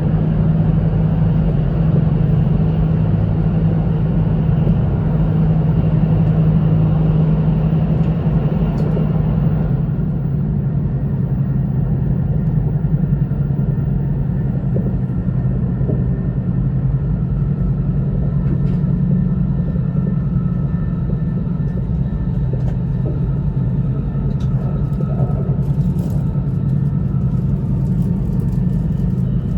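Running noise inside the cabin of an E2-series Shinkansen train: a steady low rumble with a constant hum. About ten seconds in, the higher hiss drops away, and faint ticks come through later.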